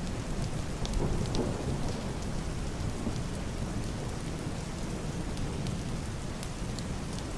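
Heavy rain pattering steadily on a roof and window glass, with sharp ticks of single drops, over a low rumble of muffled distant thunder that swells briefly about a second in.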